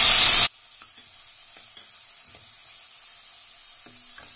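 Loud sizzling of a South Indian tempering (shallots, garlic and chillies) frying in hot oil in a pan, cut off abruptly about half a second in. After that comes a low steady hiss with a few faint light knocks.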